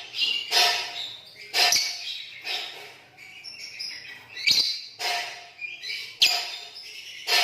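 Lovebird giving shrill, harsh chirps in a run, about one a second.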